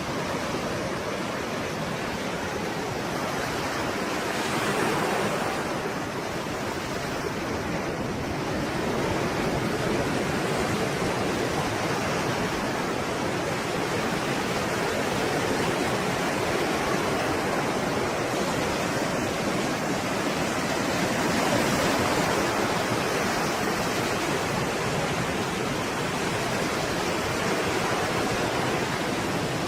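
Stormy sea surf: a continuous rush of breaking waves, swelling a little louder a few seconds in and again past the middle.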